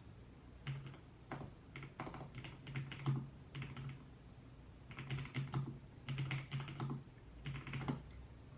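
Typing on a computer keyboard in short runs of keystrokes with brief pauses between them.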